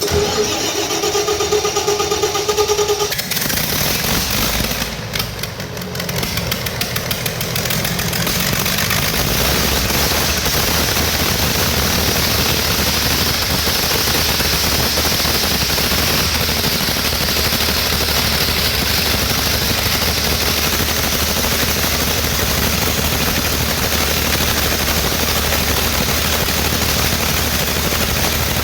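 Perkins 1306-series six-cylinder diesel generator engine being started: a starter-motor whine for about three seconds, a rough few seconds as it catches, then a steady run.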